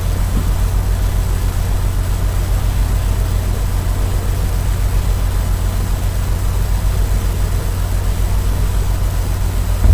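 Motorcycle engine idling with a steady low throb, with a single thump right at the end.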